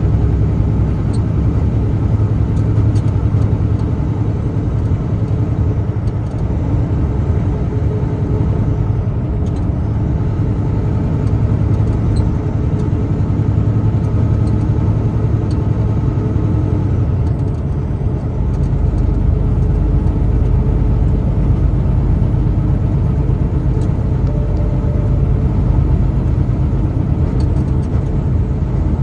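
Steady engine and road rumble of a truck being driven, heard from inside the cab. The deep part of the rumble grows a little fuller about eighteen seconds in.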